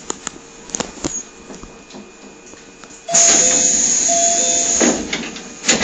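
Running noise inside a Keio 7000 series electric train car with field-chopper control, with scattered clicks. About three seconds in, a sudden loud rush of noise lasts about two seconds, then fades.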